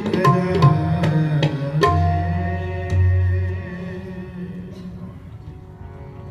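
Tabla and harmonium closing a kirtan shabad with no voice: several sharp tabla strokes and deep booming bayan tones over a held harmonium chord in the first few seconds. After that the drumming stops and the chord fades away.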